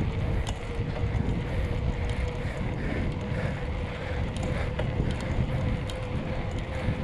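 Wind buffeting the microphone in a steady low rumble during a bicycle ride, with a faint steady hum and a few light clicks.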